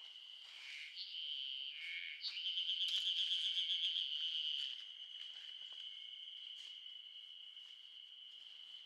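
Insects singing: a steady high trill, joined by a louder, rapidly pulsing trill from about two to five seconds in, with a few short chirps in the first two seconds.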